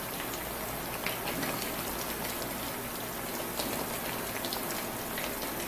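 Battered chicken pieces deep-frying in hot oil: a steady crackling sizzle with many small scattered pops.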